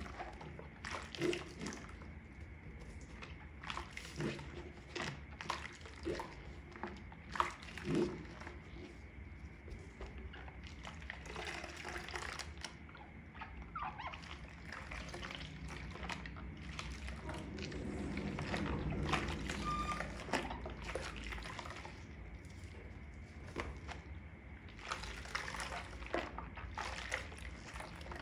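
Wet makeup sponges being squeezed and squished in soapy water: irregular squelches and watery drips, thickening into a longer sloshing stretch a little past halfway, over a steady low hum.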